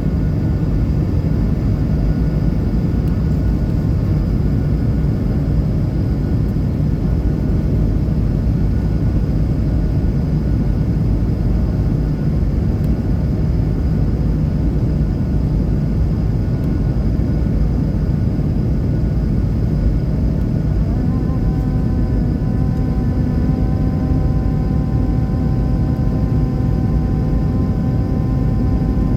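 Fixed-wing aircraft running loud and steady during a take-off, a dense low rumble. About three quarters of the way through, a hum of several steady pitches joins it.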